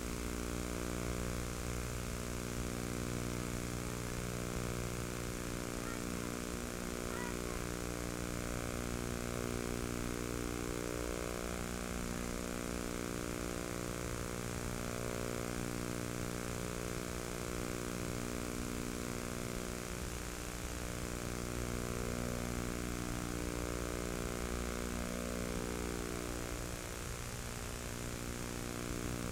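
A steady low hum with many overtones over a constant hiss, unchanging in pitch and level.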